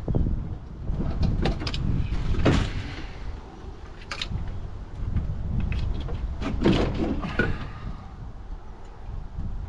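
Irregular metallic knocks, clicks and scraping of hand tools and parts being handled during an engine teardown, over a low rumble of handling noise.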